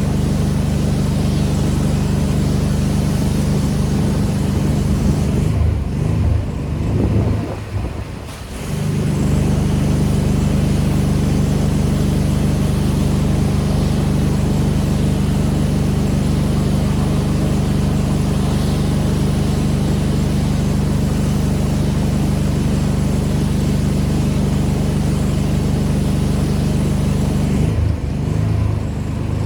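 Engine-driven pressure washer running steadily under the hiss of its spray. About six seconds in, the spray cuts off for a couple of seconds and the engine's pitch wavers before both settle back; the same happens briefly near the end.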